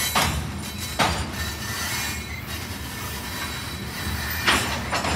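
Covered hopper cars of a grain train rolling slowly past, a steady rumble of wheels on rail broken by a few sharp clacks, with a faint high squeal.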